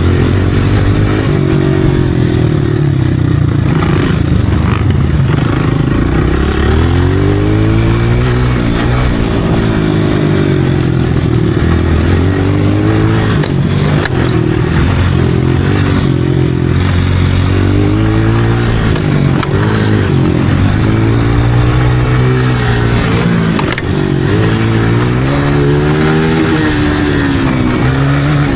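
Motocross dirt bike engine revving, rising and dropping in pitch again and again as the throttle is opened and closed.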